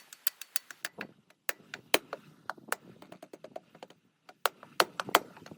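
Sharp, irregular clicks and taps, several a second, with a short pause about four seconds in: hand work with tools on metal pump parts.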